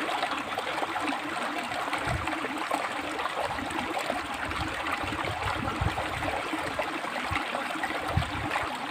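River water flowing and splashing over rocks in a steady rushing stream, with low rumbles that come and go.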